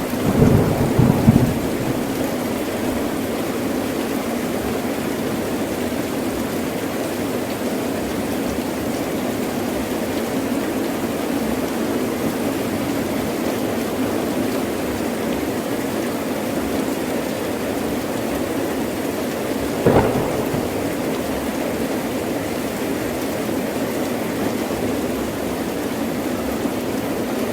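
Heavy rain falling steadily with a rumbling burst of thunder in the first second or so. About twenty seconds in there is a short, sharp crack of thunder.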